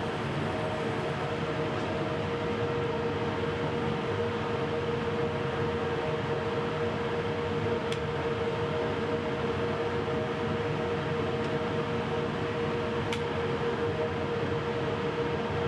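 Makita router on a OneFinity Elite Foreman CNC machine running at a steady speed: a constant high whine over an even rush of noise.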